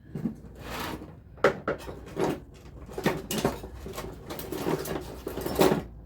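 A series of short knocks and scraping sounds at an irregular pace, sharpest about a second and a half in and near the end.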